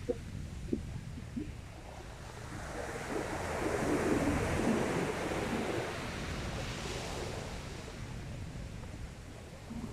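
Sea waves on the beach: one wave swells up and washes in about three seconds in, then fades away, over a steady low wind rumble on the microphone.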